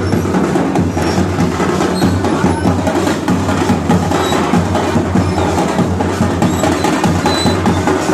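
Dhol drums played together in a fast, unbroken rhythm: dense sharp strokes over a deep low beat, loud and steady throughout.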